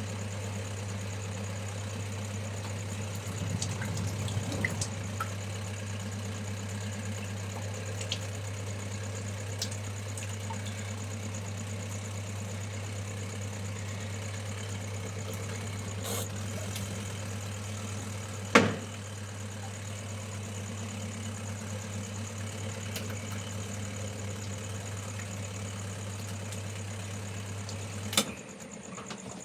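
A steady low electric-motor hum that cuts off with a click near the end, with one sharp knock about two-thirds of the way through. Insects keep up a steady high-pitched drone behind it.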